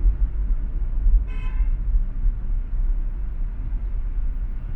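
Steady low rumble of expressway traffic and road noise, with a single short vehicle horn toot of about half a second just over a second in.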